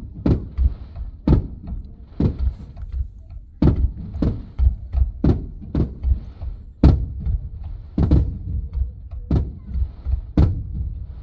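Aerial fireworks shells bursting one after another, about a dozen dull booms at uneven intervals, some followed by a faint crackle, muffled by the car's body.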